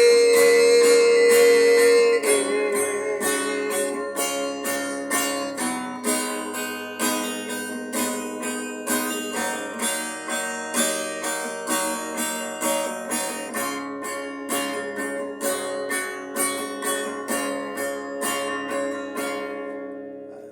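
Guitar instrumental interlude in a slow ballad: a sung note is held over the first two seconds, then the guitar plays an even run of plucked and strummed chords about twice a second, fading near the end.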